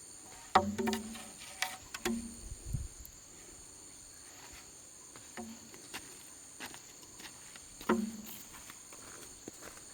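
Insects chirring steadily on several high pitches, with a few short low sounds and knocks about half a second, two seconds, five and a half seconds and eight seconds in.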